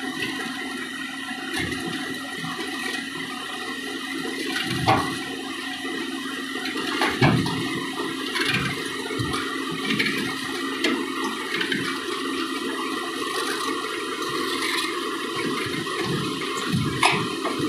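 Backhoe loader's diesel engine running steadily with a rushing noise and a steady whine, broken by a few sharp metallic knocks.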